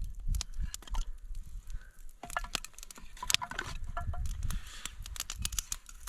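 Campfire crackling with many sharp pops, while something is shifted in the fire with crunching knocks.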